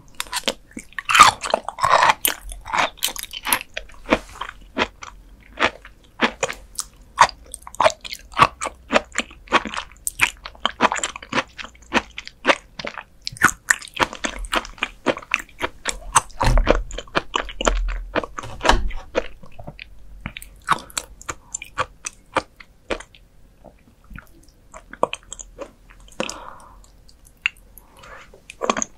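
Close-miked chewing of raw beef liver: a steady run of crisp, wet crunching clicks as bites are chewed, with a short low rumble a little past halfway.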